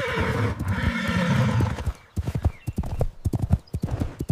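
Horse whinnying for about the first two seconds, with hooves clip-clopping, then only the hoofbeats from about two seconds in.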